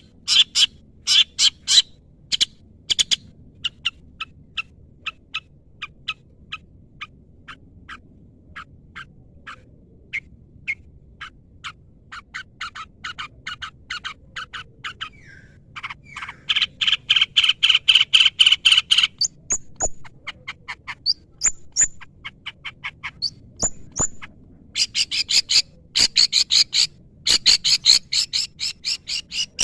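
Long-tailed shrike (cendet) singing: fast trains of short, sharp notes, with a dense chattering run about halfway through and another near the end.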